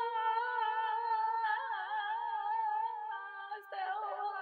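A voice holding one long hummed note with an even vibrato, shifting slightly in pitch about three-quarters of the way through.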